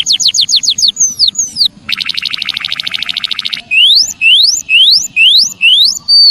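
Emprit kaji songbird singing loud, clear whistles: a fast run of falling notes, then a buzzy rattle lasting about a second and a half, then rising whistles about two a second.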